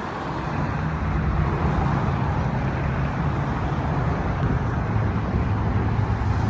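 A motor vehicle's engine running steadily with traffic noise; it builds over the first couple of seconds and then holds.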